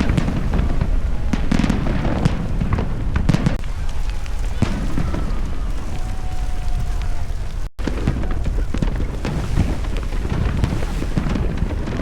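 Fireworks going off in quick succession: a dense run of bangs and crackles over a continuous low rumble, with a faint whistle partway through.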